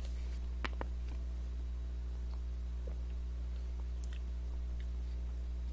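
Soft mouth clicks and squelches as konjac water jelly is sucked from a spout pouch and chewed, two close together just after the start and a few fainter ones later, over a steady low electrical hum.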